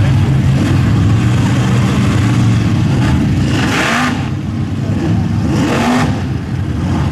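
Mud-bog 4x4 truck engine running loud and revving. There are two short rushes of noise, about halfway through and again near the end.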